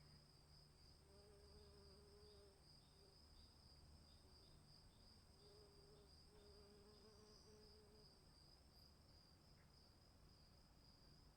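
Faint chorus of crickets: a steady, high, continuous trill. A lower droning note comes and goes in stretches of a second or so, and short soft chirps sound a few times a second in the first half.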